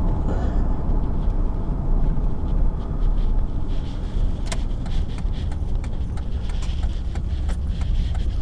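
Steady low rumble of a car's engine and road noise heard from inside the moving car. From about halfway through, scattered sharp clicks and ticks ride over it.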